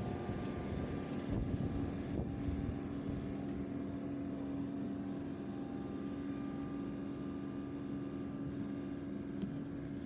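John Deere 2038R compact tractor's diesel engine running steadily, a constant hum with a strong held pitch, slightly rougher in the first couple of seconds.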